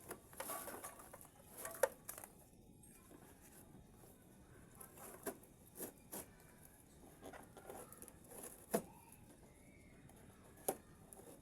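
Rope being pulled and worked tight around a refrigerator lashed to a motorcycle: faint rustling with scattered sharp taps and clicks. The loudest taps come about two seconds in and again near nine and eleven seconds.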